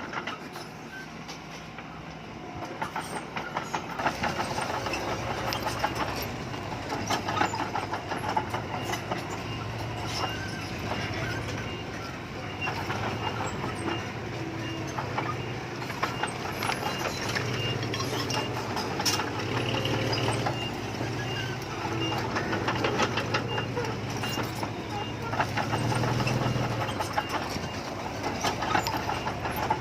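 Diesel earthmoving machinery working: an engine running with steady clanking and rattling of metal, and a faint high-pitched beep repeating through the middle.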